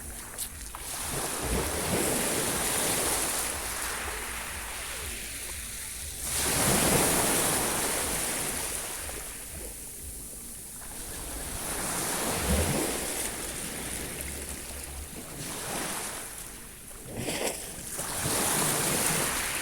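Sea waves washing onto the shore, swelling and fading about every five or six seconds, with wind rumbling on the microphone.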